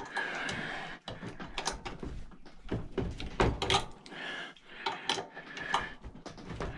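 Irregular metallic clicks, knocks and scrapes of a tool working a stuck brass gas jet loose from a cast aluminum barbecue burner.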